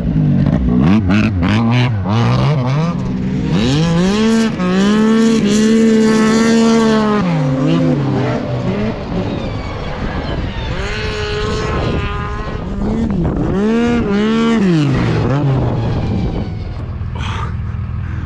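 Racing snowmobile engines revving hard, the pitch repeatedly climbing and dropping as the sleds accelerate and back off through the corners, with a long held high-revving stretch about four seconds in.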